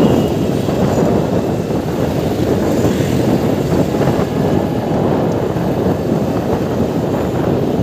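Passenger train passing: a steady, loud rumble of coaches and wheels running on the track.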